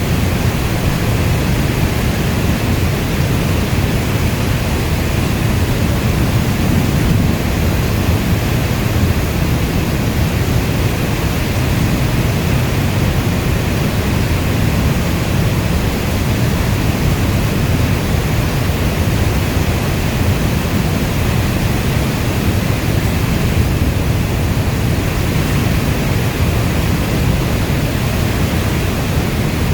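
Steady rainstorm ambience: an even, dense wash of heavy rain, heavier in the low end, with no separate drops, thunder or changes in level.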